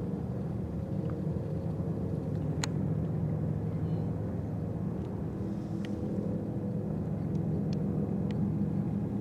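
A motor running steadily, a low even hum, with a few faint clicks over it.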